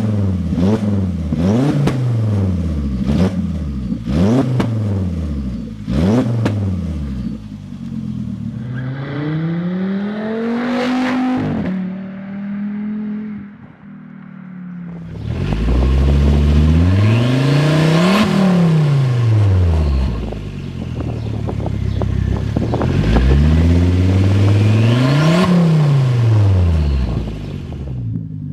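Volvo V70 R's turbocharged five-cylinder engine revving through its exhaust. It opens with a run of quick throttle blips, with crackles and pops as the revs drop. Then come three longer revs that climb and fall back, peaking about eleven, eighteen and twenty-five seconds in.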